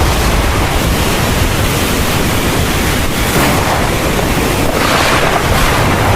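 Heavy thunderstorm rain pouring steadily, with a deep low rumble underneath and brief surges in the downpour about three and five seconds in.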